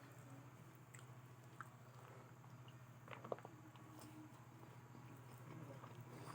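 Faint chewing of fried potato, with a few small wet clicks, over a steady low hum.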